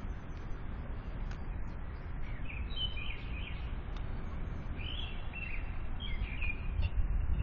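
Small birds chirping, short high chirps in two brief clusters, over a steady low rumble.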